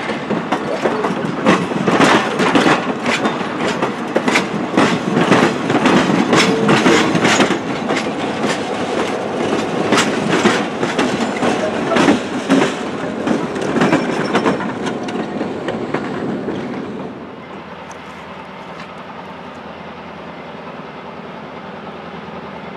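Passenger train cars rolling close past, their wheels clicking rapidly and loudly over the rail joints. About 17 seconds in this gives way to a quieter, steady rumble of a train further off.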